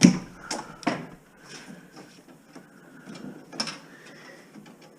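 Electrical wire being cut and pulled loose with hand cutters: a few sharp clicks and snaps, the loudest right at the start and about a second in, and another a little past three and a half seconds.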